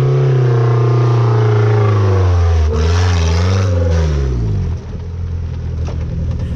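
Off-road racing car engine running loud, its pitch falling steadily, with a brief dip about two and a half seconds in. It drops away about five seconds in, leaving a lower rumble.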